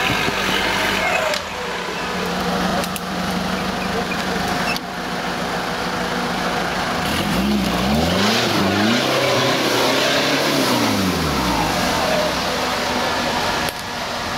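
Off-road vehicle's engine running and being revved, rising and falling in pitch several times in the middle. The sound changes abruptly a few times.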